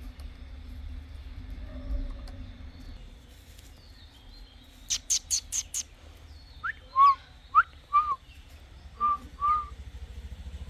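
A bird calling: a quick run of five sharp, high chips, then several short whistled notes that sweep upward.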